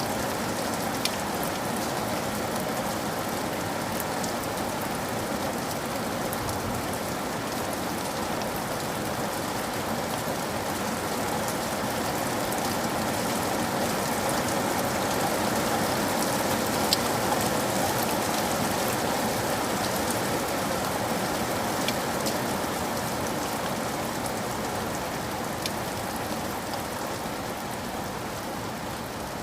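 Steady rain falling, an even hiss with a slight swell in the middle, with a few sharp single ticks now and then.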